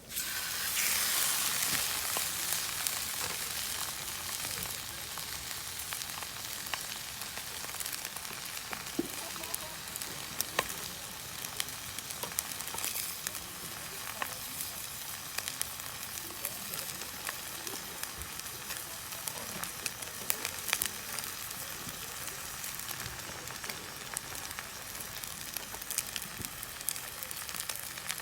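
Steak sizzling in a hot pan over a campfire. The sizzle starts abruptly, is loudest in the first couple of seconds, then settles to a steady sizzle with scattered pops.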